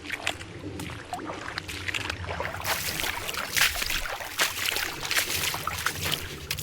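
Heavy rain falling, with many close drops pattering irregularly; the rain gets heavier about two and a half seconds in.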